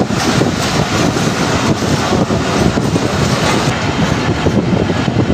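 Passenger train running: a steady rumble and clatter of wheels on the rails, with wind buffeting the microphone.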